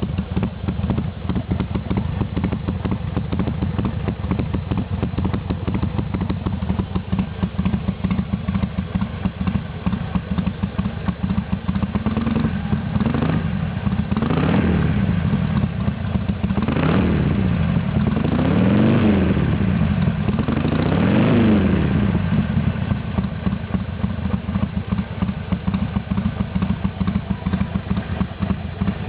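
Harley-Davidson Sportster XL1200L's air-cooled V-twin idling with a lumpy, uneven beat through a Motor Stage aftermarket muffler with a brass tail end. Midway it is blipped about five times, each rev rising and falling, before settling back to idle.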